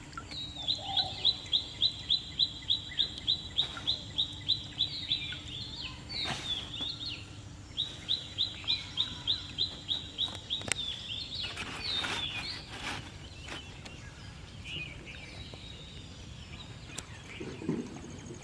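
A bird calling a long, even run of short high notes, about three to four a second. It pauses, starts a second run about eight seconds in, and then gives a few looser calls.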